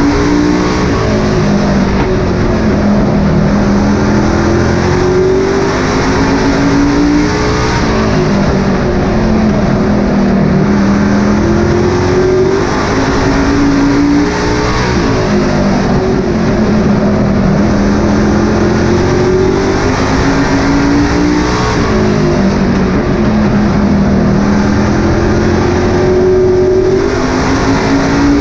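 Super Pro racing truck engine at race pace on a short oval, its pitch climbing on each straight and dropping off into each turn, repeating about every seven seconds.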